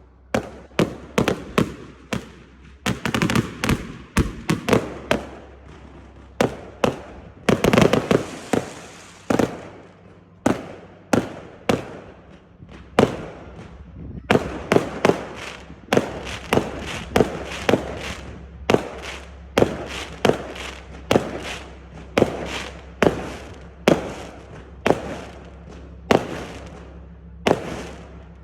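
Consumer firework cakes firing in a steady barrage, a run of sharp bangs about one to two a second, each trailing off briefly.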